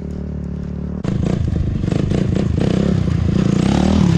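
Motorcycle engine running, getting louder about a second in, with its pitch rising and falling as the throttle is worked.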